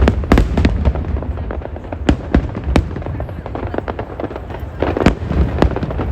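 Aerial fireworks bursting overhead: a rapid, irregular run of sharp bangs and crackles over a continuous low rumble, with the loudest reports near the start, around two to three seconds in, and again around five seconds in.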